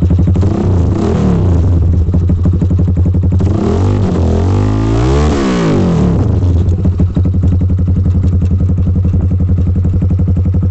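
GPR250 motorcycle engine through an aftermarket exhaust, idling with a couple of light throttle blips near the start. About four seconds in it is revved up once and falls back, then settles to a steady idle.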